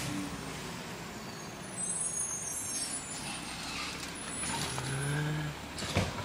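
Garbage truck running at the curb, its engine a steady low drone, with a short, loud burst of noise near the end.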